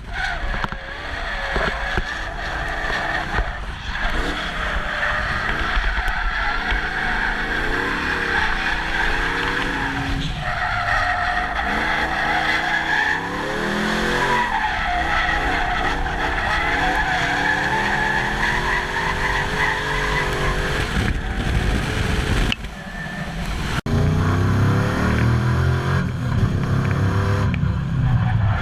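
Drift truck's swapped LS2 V8 engine revving up and down through a drift while its rear tires squeal steadily. About 24 seconds in the sound breaks off abruptly and resumes with a lower, louder engine note.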